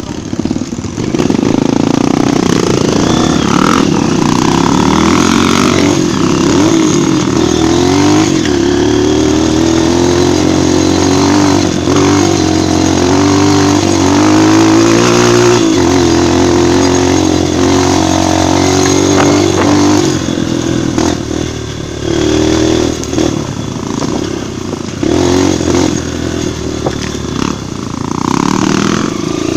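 Trail motorcycle's four-stroke single-cylinder engine running under way, its pitch rising and falling with the throttle and dropping abruptly about halfway through.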